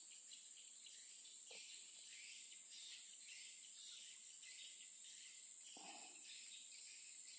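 Faint, steady, high-pitched insect chirring, like crickets, over a soft background hiss.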